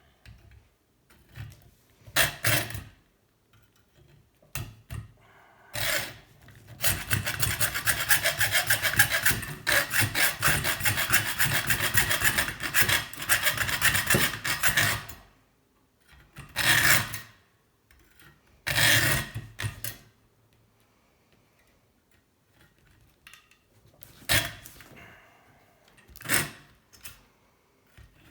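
A hand tool rasping back and forth on the metal tube of a scrap kettle heating element, cutting or filing it by hand. It comes in short bouts with pauses, plus one long run of fast strokes lasting about eight seconds through the middle.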